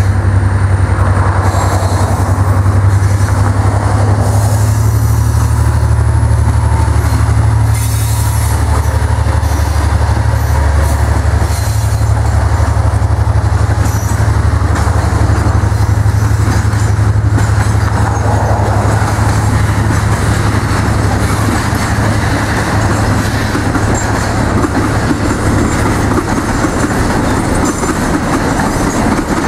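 A freight train's pair of diesel locomotives pulling past under power, their deep steady engine drone strongest in the first dozen seconds. After that comes the long rumble and clickety-clack of loaded container flatcars rolling by.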